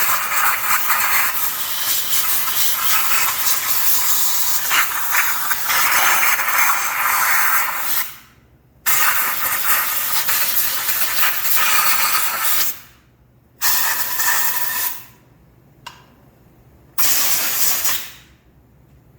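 Compressed-air blow gun blasting belt dust out of a CVT primary clutch. One long loud hiss of about eight seconds is followed by three shorter blasts, a few seconds, then about a second and a half, then about a second near the end.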